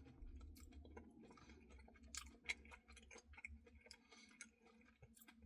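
Faint chewing of cookie dough Blizzard ice cream, with soft, irregular mouth clicks, a couple slightly louder about two seconds in.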